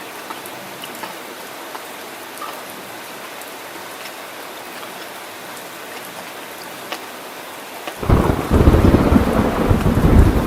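Steady rain falling, then a loud low rumble of thunder breaks in suddenly near the end.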